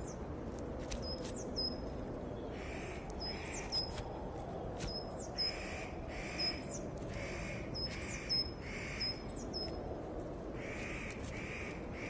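Wild birds calling: short harsh calls coming in pairs again and again, with thin, high, quickly bending chirps among them, over a steady low background hiss.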